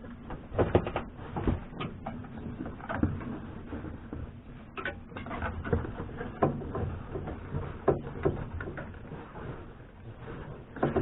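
Irregular clicks, knocks and rustles of hands and a tool prying at a Suzuki Kei's interior headliner and its plastic trim clips, which are hard to work loose.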